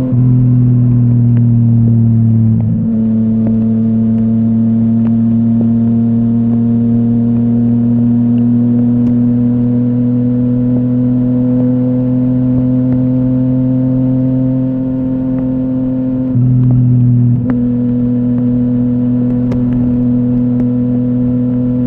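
Yamaha MT-09 three-cylinder engine running through a full Akrapovic exhaust under way, its note climbing slowly and steadily. The note breaks briefly about three seconds in and again twice between sixteen and eighteen seconds.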